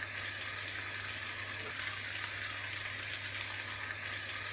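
Noodles, chicken and vegetables sizzling in a frying pan: a steady hiss with frequent small crackles and a low steady hum underneath.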